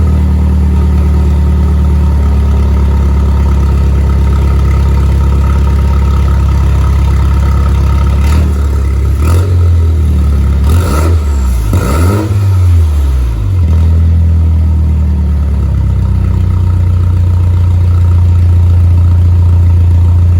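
Mini Cooper S F56's turbocharged four-cylinder engine running with no exhaust fitted after the catalytic converter: a loud, raw idle. Between about 8 and 13 seconds in it is revved several times in short blips, then settles back to idle.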